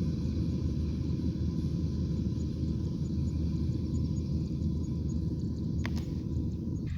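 A rice combine harvester's engine running steadily with a deep rumble, with one sharp click about six seconds in.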